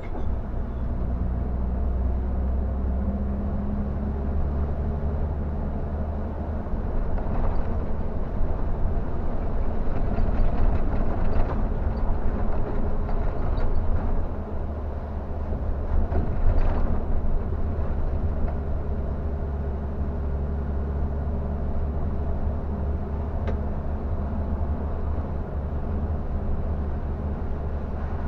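Scania K360 bus under way, heard from inside: a steady, deep engine drone with road and tyre noise, the engine note shifting now and then, louder for a few seconds around the middle.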